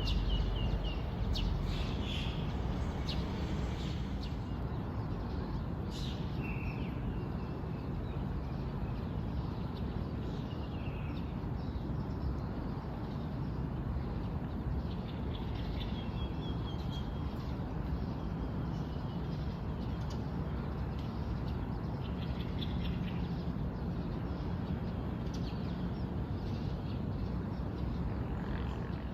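Small birds chirping and calling, with short chirps and brief whistled notes scattered throughout, over a steady low background rumble.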